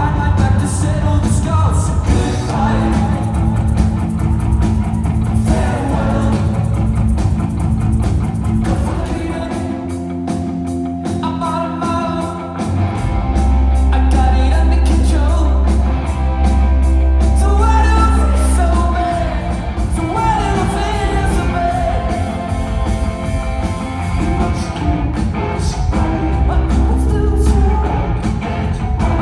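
Rock band playing live with a lead vocal over guitars and drums, loud and dense. A heavy held bass note comes in about halfway through.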